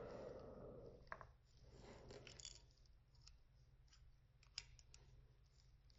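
Near silence with a few faint, scattered clicks of small model parts being handled: landing gear pieces fitted onto a diecast model airliner.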